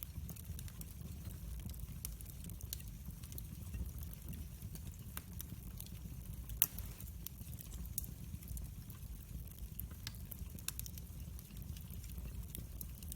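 Wood fire burning in a fireplace, crackling with many small scattered pops over a low steady rumble; one louder pop about six and a half seconds in.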